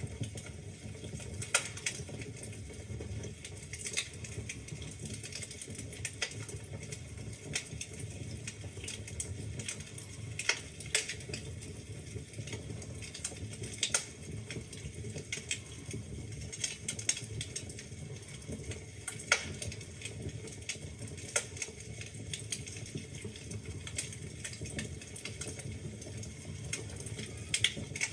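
Wood fire in a fireplace crackling, with irregular sharp pops and snaps of burning logs over a steady low rumble of the flames.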